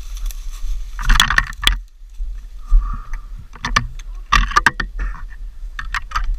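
Wet, splashy squelching in a handful of short bursts: boots sloshing through mud and water. A steady low rumble runs underneath.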